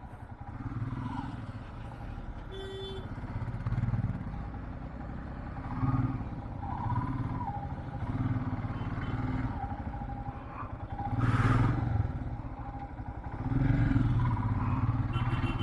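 Motorcycle engine running while riding, its drone rising and falling with the throttle. A brief pitched tone sounds about two and a half seconds in, and a rush of noise swells about eleven seconds in.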